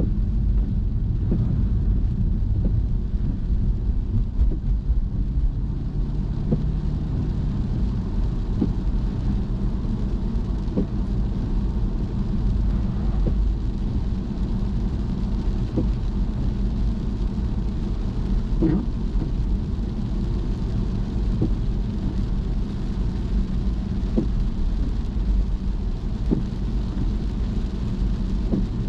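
Car driving on wet roads: a steady low rumble of tyres and engine with a fainter hiss above it, and faint knocks every couple of seconds.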